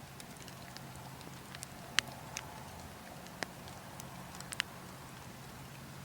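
Burning logs crackling, with scattered sharp pops of the wood, the loudest about two seconds in, over a steady low rush of wind.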